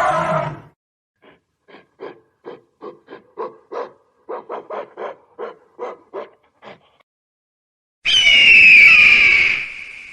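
Wild animal sounds: a loud roaring call cuts off about half a second in, then a run of short sharp knocks at about two to three a second. Near the end a loud high-pitched screeching call falls in pitch.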